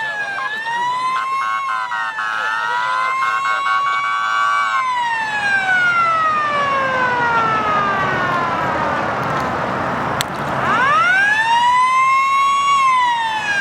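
A siren wailing, its pitch rising and falling slowly, with a long falling sweep in the middle and a fresh rise near the end. Rapid chopped steady tones sound over it during the first few seconds.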